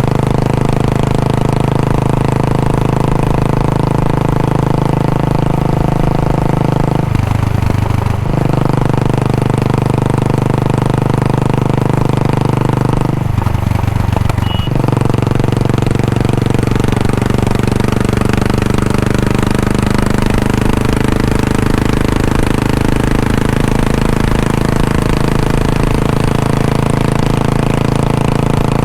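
Royal Enfield Bullet 500's single-cylinder engine running steadily through its exhaust, its note changing briefly twice, about seven and thirteen seconds in.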